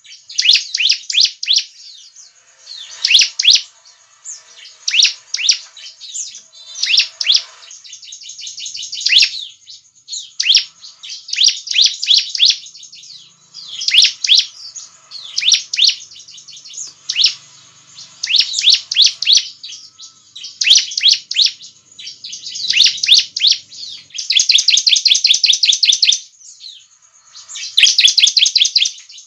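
Bar-winged prinia (ciblek) singing loud, high phrases of fast repeated notes every second or two. Near the end come two longer unbroken rapid trills of about two seconds each.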